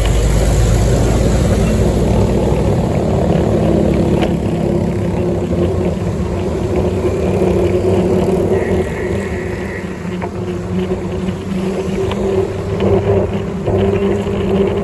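A vehicle engine running steadily, with wind rumbling on the microphone for the first few seconds.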